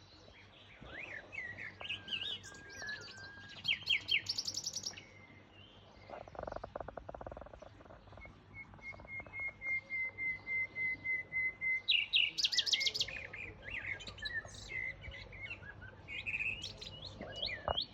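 Wild birds singing and calling: varied chirps and sweeping notes, with quick rapid trills twice and a long steady high note in the middle. A brief rough rustling noise comes about six seconds in.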